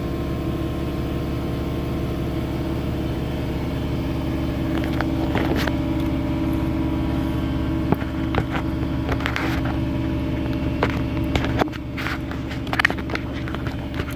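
Chevy Sonic's 1.4-litre turbo four-cylinder engine idling steadily, with scattered clicks and knocks close to the microphone from about five seconds in.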